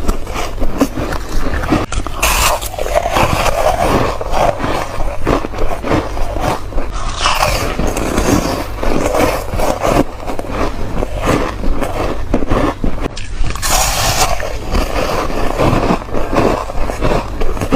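Foam ice being bitten and chewed, a loud, dense run of crunching and crackling with no pauses.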